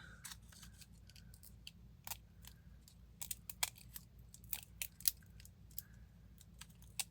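Scissors snipping through a piece of dry palm-tree material: a run of irregular, crisp snips and crackles, busiest in the middle.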